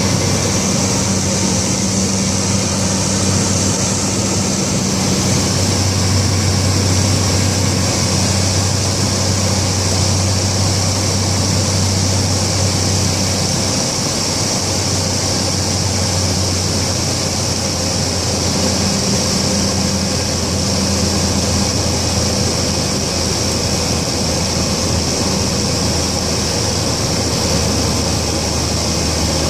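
Cessna Caravan's turboprop engine and propeller heard from inside the cockpit: a steady drone with a high turbine whine, its low propeller tone shifting in pitch a few times.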